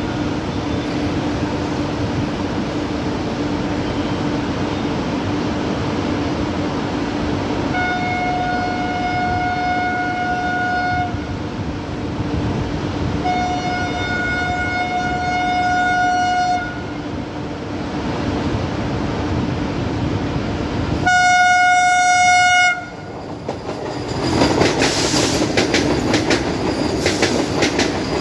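Indian Railways Vande Bharat Express electric train sounding its horn in three long blasts as it approaches, the third the loudest, over a steady rumble. In the last few seconds it rushes past close by, with the wheels clattering over the rail joints.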